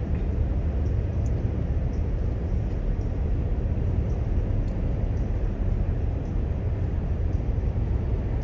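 Steady low road and engine noise heard inside a moving car's cabin.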